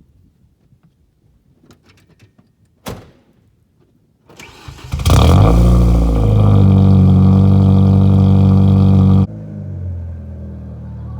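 Car engine cold-started after sitting for a few days. A few faint clicks, then a brief crank about four seconds in before it catches. It runs at a loud, fast cold idle, then drops suddenly to a quieter, steady idle near the end.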